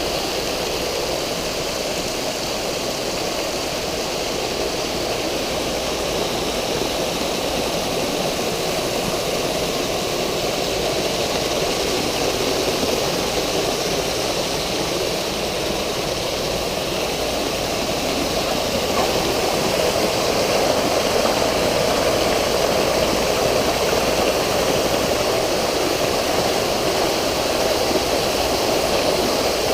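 Water from a swimming pool's water features falling and splashing into the pool: a steady rushing that grows a little louder about two-thirds of the way through.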